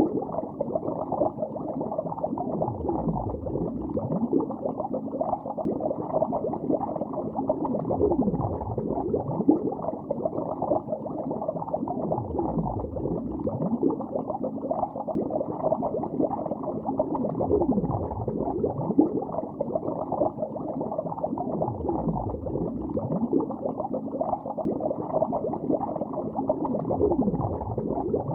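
Continuous muffled underwater bubbling, with nothing bright or high in it. A deeper swooping sound recurs about every four to five seconds.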